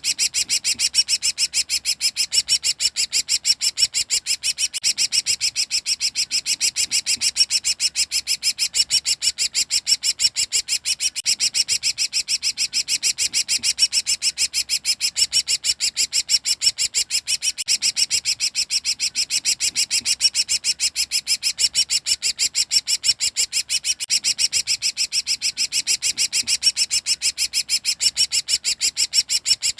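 Cucak ranting songbird in nonstop 'ngekek' chatter: a rapid, even stream of high, sharp notes repeated many times a second without a break.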